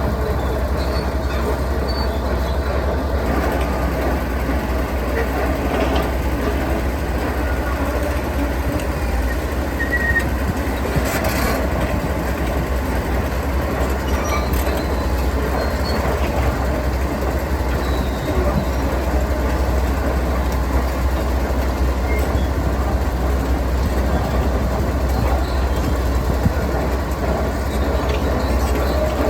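Heavy diesel construction machinery running steadily: a loud, continuous engine rumble with no breaks.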